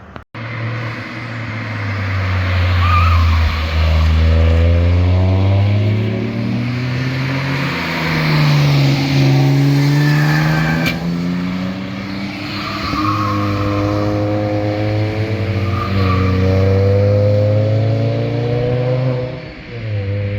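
Performance cars driving past at speed, engines revving up and dropping back through several gear changes, with loud exhausts.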